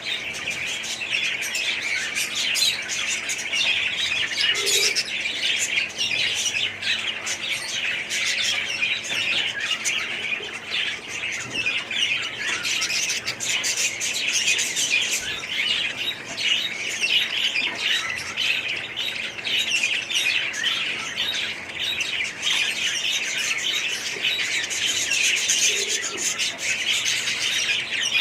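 A flock of small parrots chattering and squawking, many calls overlapping without a break.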